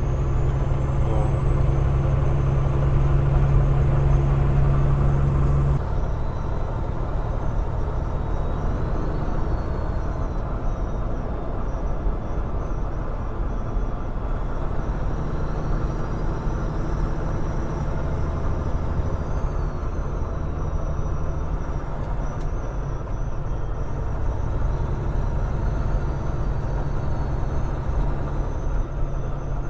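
Peterbilt 389 glider tractor-trailer cruising at highway speed, engine drone and road noise heard from inside the cab. A strong low engine hum drops back about six seconds in, leaving a steadier, quieter running noise.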